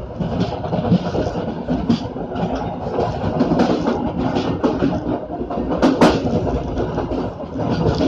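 A passenger train running on the rails, heard from on board: a steady rumble with its wheels clattering over the track, and one sharp clack about six seconds in.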